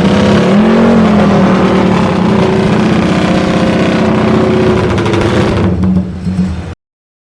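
Motorcycle engine running loudly at a fairly steady pitch, rising briefly about a second in, easing off near the end and then cutting off suddenly.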